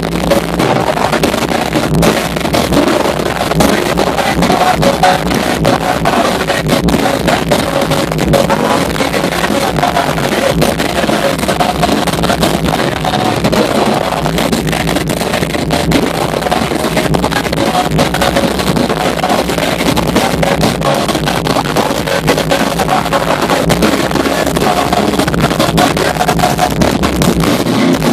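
Metalcore band playing live and loud: electric guitars and a drum kit.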